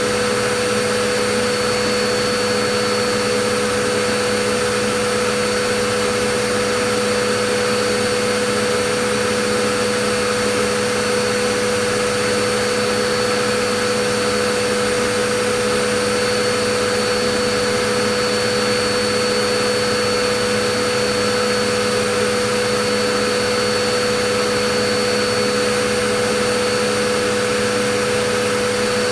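Vacuum cleaner running steadily: an even rush of air with a constant motor hum and whine that never changes.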